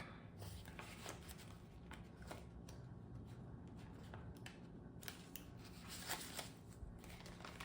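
Paper banknotes being handled and sorted: faint rustling and a few soft clicks and crinkles.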